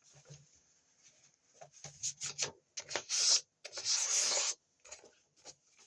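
A sheet of paper being folded up: scattered crackles, with two louder rustling sweeps about three and four seconds in as it is creased.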